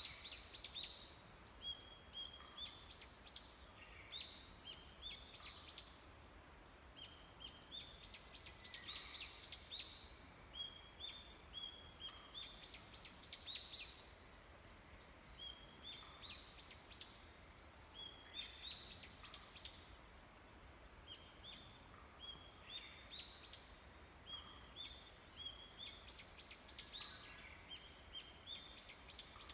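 Small forest songbirds singing in the early morning: rapid runs of high chirping notes in phrases a few seconds long, repeated every few seconds, over faint background hiss.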